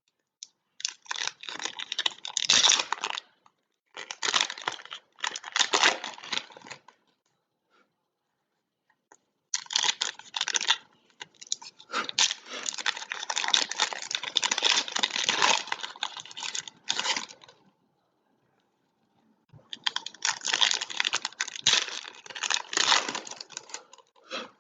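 Trading card pack wrappers being torn open and crinkled, in several bursts of a few seconds each with short quiet gaps between.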